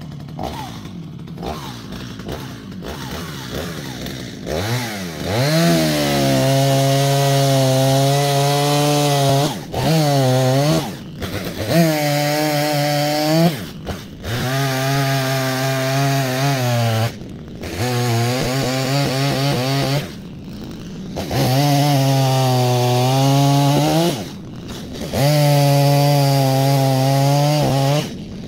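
Chainsaw cutting oak logs into firewood lengths: the engine revs up and holds a steady, loaded pitch through each cut, then falls back between cuts. There are about half a dozen cuts of a few seconds each, with short breaks.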